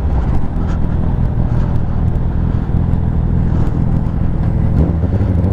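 Honda CBR1000RR's inline-four engine running steadily while riding at cruising speed, with a level note and rushing noise over it.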